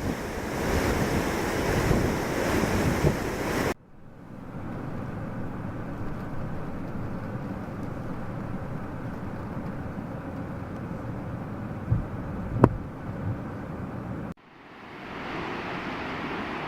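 Steady rush of falling water from a waterfall, with wind buffeting the microphone during the first few seconds. The sound cuts abruptly twice, at about four seconds and near the end, each time changing in level, and there is one sharp click shortly before the second cut.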